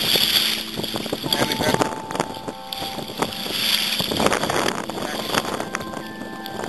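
Choppy water splashing and sloshing around a kayak, with wind buffeting the microphone; the water noise swells and falls twice.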